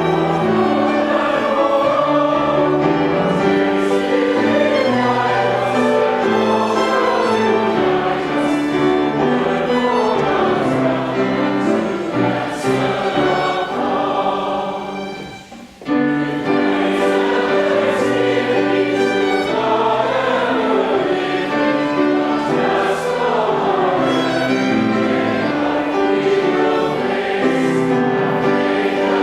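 A choir singing a sacred piece, with a short break about halfway through before the singing resumes.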